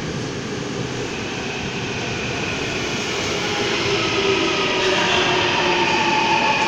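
Daejeon Metro Line 1 subway train pulling into the station, growing steadily louder. From about halfway in, a whine of several tones that fall slightly in pitch rises over the rumble as the train slows.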